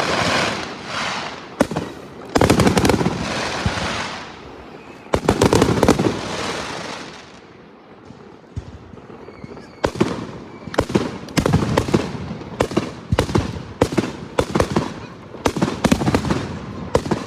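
Fireworks going off: two loud bangs about three seconds apart, each trailing off, then from about ten seconds in a rapid run of sharp cracks.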